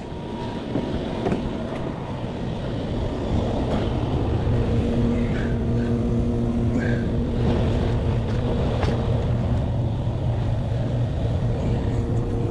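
Steady mechanical hum that builds up over the first few seconds, then holds with a few steady tones.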